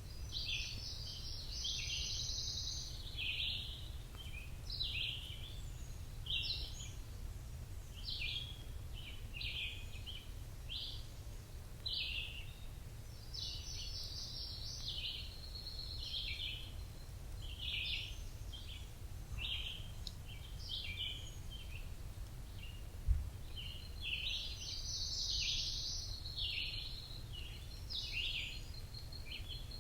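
Forest birds chirping: a steady run of short chirps, with a longer, busier song phrase three times, about every eleven seconds. A low steady rumble runs underneath, and a single brief low thump comes about 23 seconds in.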